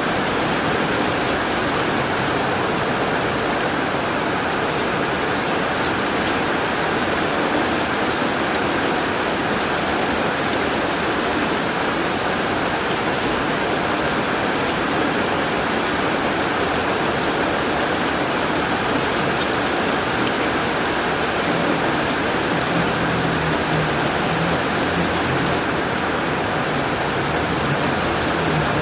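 Heavy rain falling steadily on a tin roof, a dense even hiss of drops, with a faint low rumble in the last few seconds.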